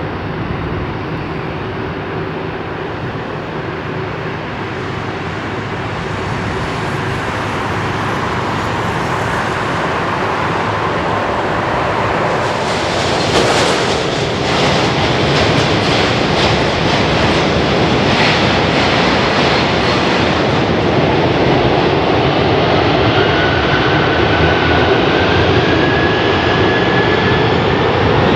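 Jet engines of a McDonnell Douglas MD-11F freighter running and growing steadily louder, with a crackling stretch in the middle and a whine that rises in pitch near the end.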